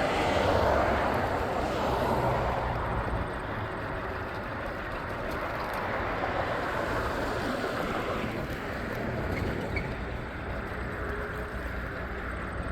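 Steady rushing and rumbling of an electric scooter ridden along a road: tyre and road noise with wind.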